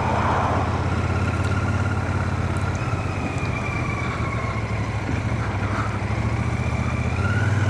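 Royal Enfield Shotgun 650's parallel-twin engine running steadily under a rider, heard from a microphone inside a full-face helmet, with a slight rise in pitch near the end.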